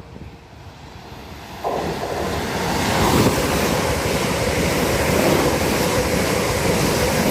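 Two coupled Class 350 Desiro electric multiple units passing at speed: a rushing noise of wheels on rail and moving air that builds, jumps much louder about a second and a half in, and stays loud.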